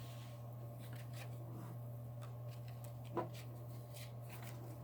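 Faint rustling and light taps of tarot cards being handled and sorted, with one slightly louder tap about three seconds in, over a steady low hum.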